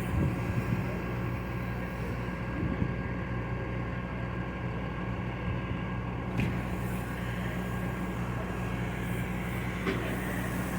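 Steady low drone of an idling engine, unchanging throughout, with a couple of faint brief knocks.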